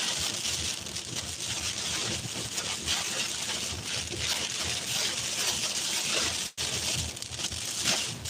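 Heavy storm rain and wind as a dense, steady hiss, broken by a brief dropout about six and a half seconds in.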